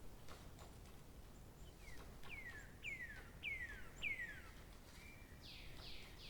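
A bird singing a run of five clear whistled notes, each sliding down in pitch, about 0.6 s apart. A short steady note and a few rougher calls follow near the end.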